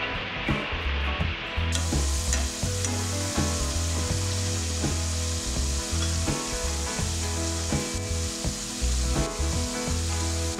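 Potato batons shallow-frying in hot oil in a non-stick pan, with a steady sizzle and bubbling that gets brighter about two seconds in. A background music track with low bass notes runs underneath.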